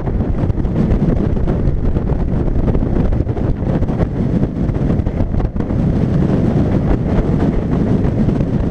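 Strong wind buffeting the microphone on a boat running across the water, with a steady low motor rumble underneath.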